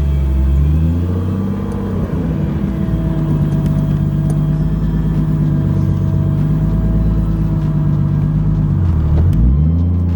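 Turbocharged BMW M52 inline-six in a 1999 BMW 323i running on the road. Its pitch swings up and down at first, holds steady for several seconds, then dips and climbs again near the end.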